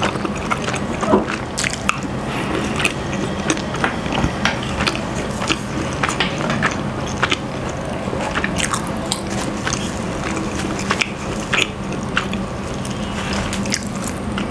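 Close-miked mouth sounds of someone chewing a mouthful of instant fried noodles, with many small wet clicks and smacks throughout.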